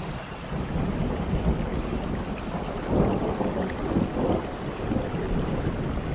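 Rain falling steadily with a low rumble of thunder that swells in about half a second in and surges irregularly around the middle.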